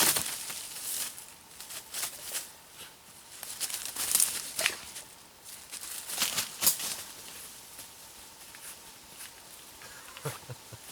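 Irregular crunching and rustling of steps through dry leaves and brush, getting quieter after about seven seconds.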